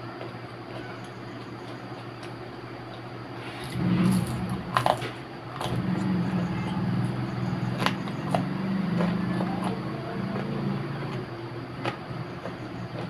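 Close-miked chewing of fried onion pakoda, with sharp wet mouth clicks scattered through it, starting about four seconds in. A steady low hum runs underneath.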